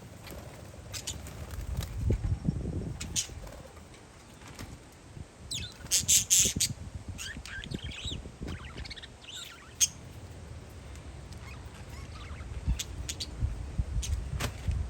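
Parakeets chirping and squawking in short, harsh calls, loudest about six seconds in, over a low rumble of wind gusting on the microphone.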